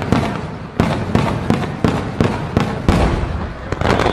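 Fireworks going off in a rapid, even series of sharp bangs, about three a second, over a continuous crackle.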